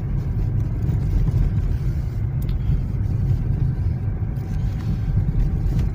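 Lada Vesta driving on a snow-swept asphalt road: a steady low rumble of engine and tyre noise.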